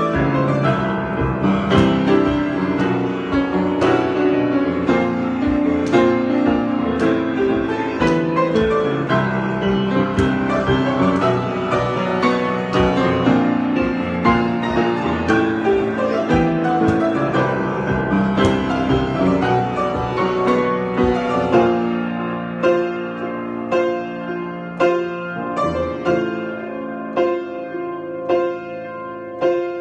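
Solo improvised piano playing: full, dense chords for about twenty seconds, then thinning to lighter separate notes struck about once a second.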